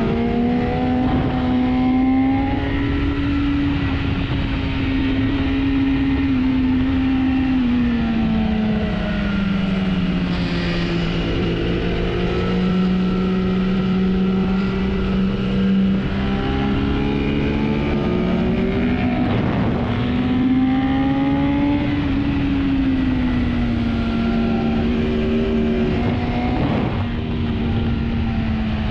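Four-cylinder sport motorcycle engine pulling hard at high revs, its pitch rising and falling slowly with the throttle, over a steady rush of noise.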